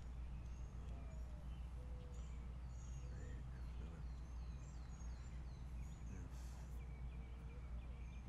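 Several birds chirping and calling, including a run of short downward chirps in the middle, over a steady low rumble.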